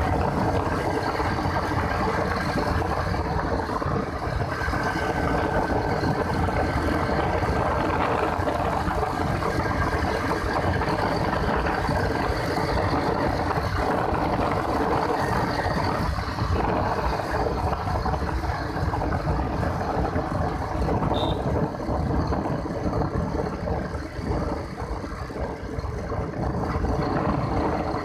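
Motorcycle running steadily at road speed on a highway, with a continuous rush of wind and road noise.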